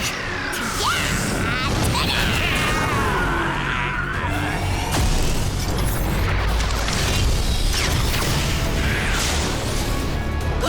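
Dramatic action music laid under cartoon battle sound effects: booms, mechanical clanks and gliding whooshes, with several sharp hits.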